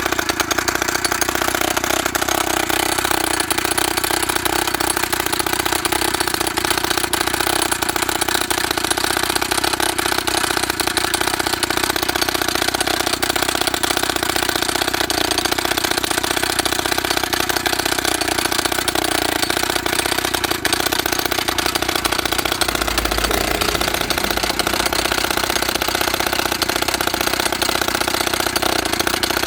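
Two-stroke petrol engine of a YN30A mini rock drill running steadily.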